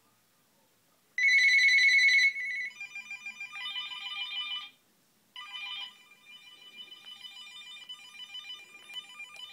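Mobile phone ringtone: a loud high warbling trill about a second in, then an electronic melody of repeated notes that stops briefly near the middle and starts again.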